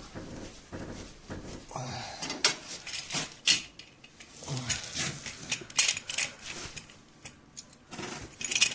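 Irregular metal clinks and clanks of tools and steel equipment being handled and set in place, a few of them sharp and loud.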